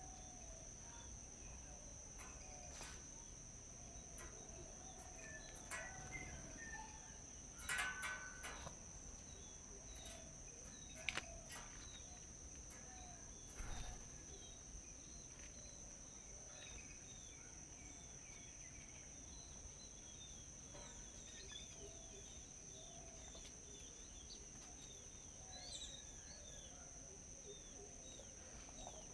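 Faint forest ambience: a steady high-pitched insect drone with scattered small bird chirps, broken by a few sharp clicks or knocks, the loudest about eight, eleven and fourteen seconds in.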